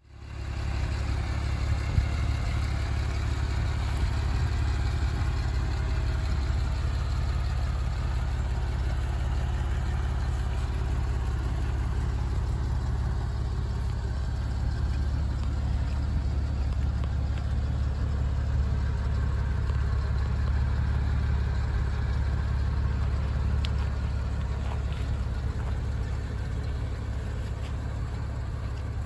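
2002 Porsche 911 Carrera's flat-six engine idling steadily.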